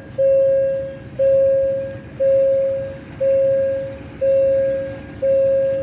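Railway warning bell ringing steadily, one ring about every second, each ring fading out before the next: the signal that a train is approaching.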